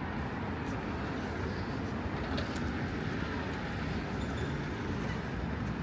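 Steady road-traffic noise: a continuous low rumble of passing vehicles, with no single event standing out.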